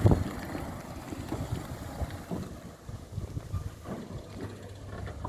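Wind buffeting the microphone: an uneven low rumble with irregular knocks, the loudest right at the start.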